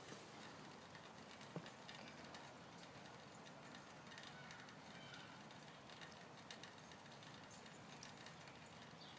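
Near silence, with faint scattered light clicks and one soft knock about a second and a half in.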